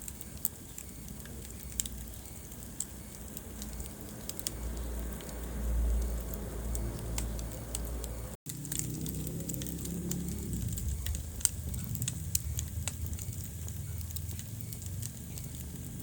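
Wood fire burning in a fireplace: irregular sharp crackles and pops over a low rumble of flames. The sound cuts out for an instant about halfway through.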